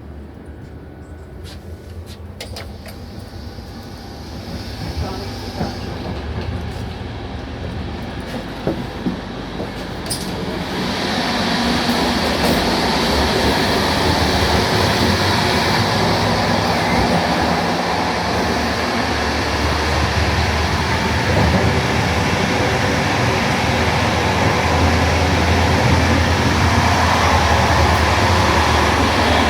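Regional electric train getting under way: its running noise builds over the first ten seconds or so, with a few clicks and knocks, then holds steady and loud as the train runs at speed.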